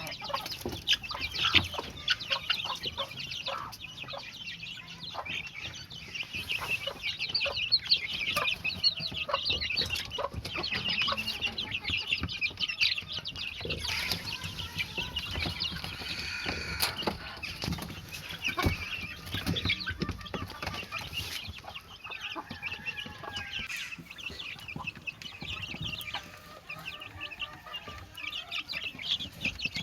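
Many birds calling at once: a continuous chatter of short, overlapping high calls, with scattered sharper clicks.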